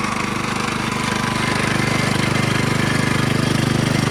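Small engine running fast with a rapid, even pulse, driving the trommel wash plant's belt-driven water pump; it builds a little over the first second, then holds steady. At this speed the pump is hardly moving any water.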